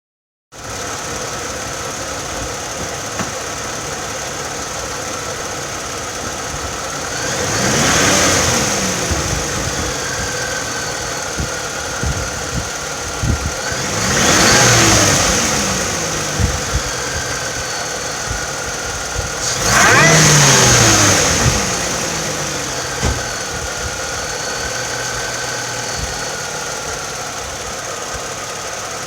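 Toyota 4.0L V6 with a TRD supercharger, warm, idling and blipped three times, about 8, 14 and 20 seconds in, each rev rising and falling back to idle. A steady high whine sits over the engine sound throughout: this is the supercharger noise under investigation.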